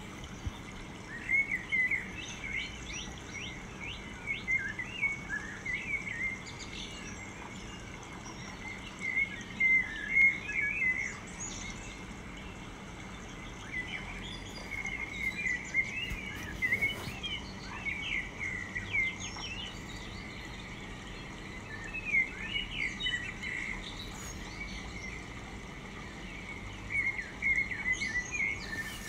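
Songbirds chirping and singing in quick runs of notes that come again every few seconds, over a steady outdoor background noise.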